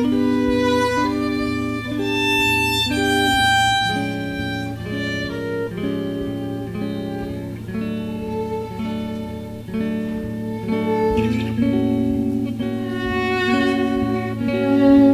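Violin and guitar playing an instrumental passage, with a string of held melodic notes over the chords and no singing.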